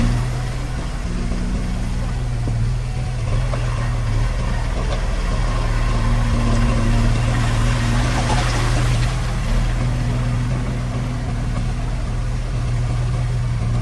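Heavy diesel engine of earthmoving equipment running steadily at a constant speed, with a short rush of noise about eight seconds in.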